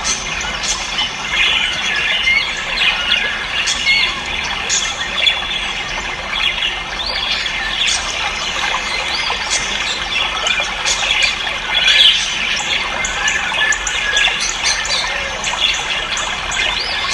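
Many caged birds chirping and squawking at once, a dense, unbroken din of overlapping calls.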